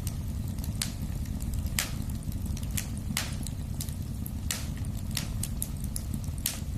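Wood fire crackling in a fireplace: a steady low rumble of flames with sharp pops and snaps about once a second and fainter ticks between.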